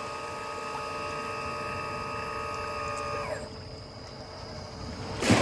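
LESU Doosan PC360 RC hydraulic excavator's pump whining steadily, then winding down and dropping out about three seconds in, leaving a faint steady hum. A sudden noisy rush comes right at the end.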